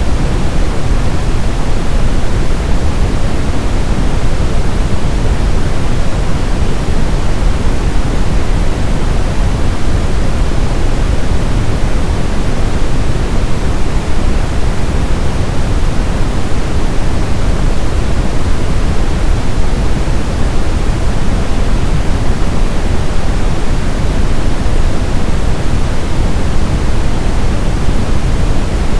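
Synthetic brown noise: a steady, unbroken hiss-like rumble weighted heavily toward the low end, with no change or events.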